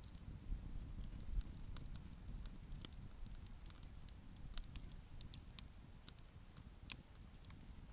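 Wood campfire crackling quietly, with scattered sharp snaps and pops at irregular moments over a low rumble.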